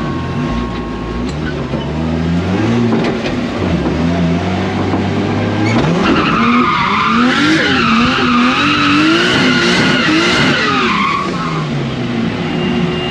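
Drift car engine revving up and down through a slide, with the tyres squealing loudly from about six seconds in for about five seconds, the squeal wavering in pitch.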